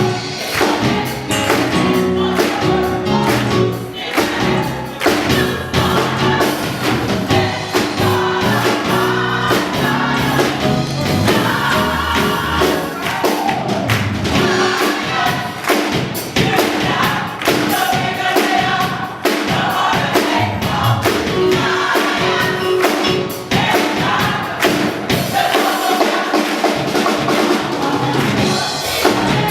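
Choir singing gospel music with instrumental accompaniment and percussion keeping a beat.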